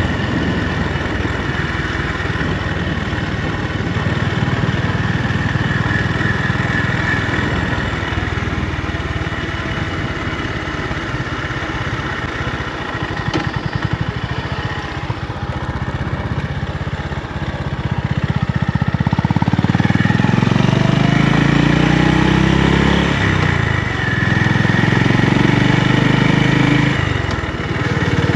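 Honda GB350's air-cooled single-cylinder engine running steadily at low revs. About two-thirds of the way in it gets louder, and the revs rise and fall several times.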